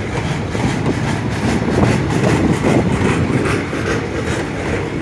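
A TransNamib train passing close by: a loud, steady rumble of the rolling train with a constant clatter of clicks from the wheels on the rails.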